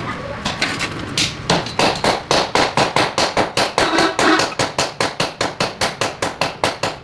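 Rapid, evenly spaced knocks, about four or five a second, starting about a second and a half in: repeated striking, like chopping or hammering.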